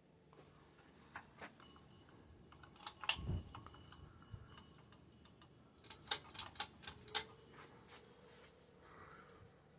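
Monte Carlo ceiling fan running with a faint steady hum. Scattered light clicks and a soft knock come about three seconds in, and a quick run of clicks comes between six and seven seconds.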